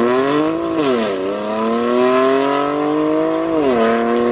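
BMW F30 330d's Stage 2 tuned straight-six turbodiesel with a catless downpipe, accelerating through the gears. Its rising note drops sharply at an upshift about a second in, climbs steadily, then drops again at a second upshift near the end.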